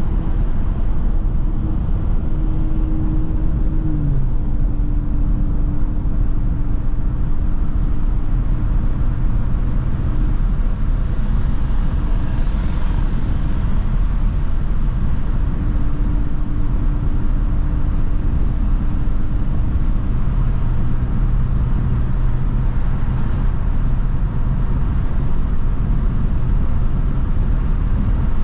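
Mercedes-AMG C43 driving at a steady speed: continuous engine and road noise, with the engine note stepping down in pitch about four seconds in.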